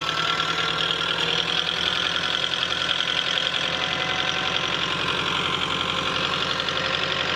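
Tractor engine running steadily with a fast, even pulsing beat.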